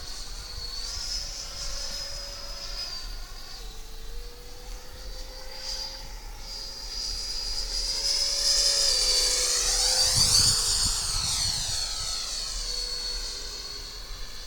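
Radio-controlled model jet flying with a steady high whine, its pitch stepping slightly as the throttle changes. About ten seconds in it passes close by, louder and with a sweeping whoosh, then fades back to a steady whine.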